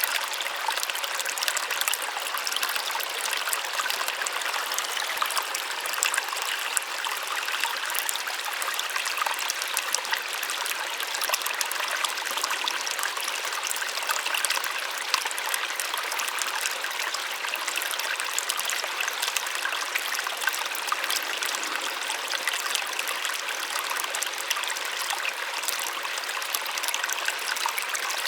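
Small waterfall splashing steadily, a light, even rush of falling water with fine trickling detail and almost no deep rumble.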